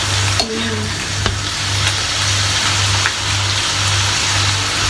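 Bacon sizzling and spitting in a hot frying pan, a steady hiss with a few light clicks. Under it a low hum pulses about twice a second.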